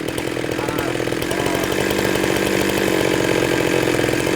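Chainsaw running steadily while cutting wood, growing slightly louder.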